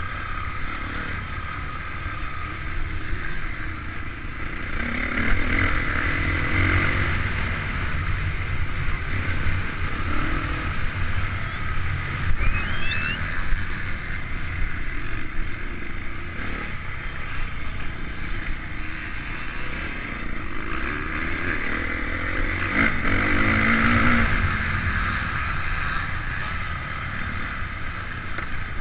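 Honda CRF450 motocross bike's single-cylinder four-stroke engine revving up and down as it is ridden around the track, swelling hardest twice, about five and twenty-three seconds in, over a constant low rumble from wind and vibration on the onboard camera.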